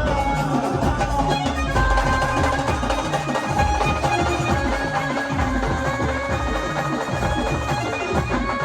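Brass band playing an instrumental passage between sung lines: wind instruments carry the melody in long held notes over a steady drum beat.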